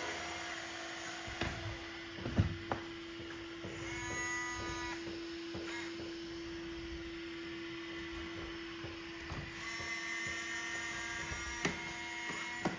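Robot vacuum running with a steady motor whine, a higher whine rising over it twice for a second or two, and a few sharp knocks.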